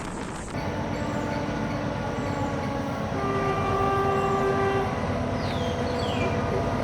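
Sri Lankan Class S13 diesel multiple unit train sounding its multi-tone horn, loudest in a blast of about a second and a half in the middle, over the running noise of the train.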